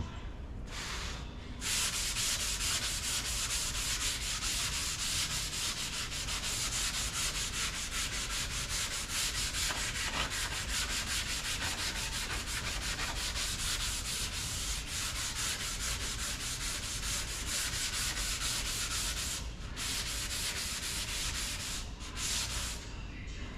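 Sanding of body filler on a car body panel: steady, hissy scraping made of many quick strokes. It starts after a short first pass and pauses briefly twice near the end.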